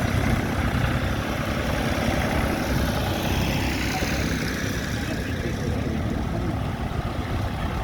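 Vehicle engines, tractors among them, running steadily with a low rumble.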